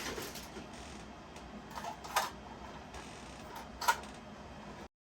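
Light handling sounds of a model train boxcar and its box: two short clicks over low room noise, then the sound cuts off abruptly near the end.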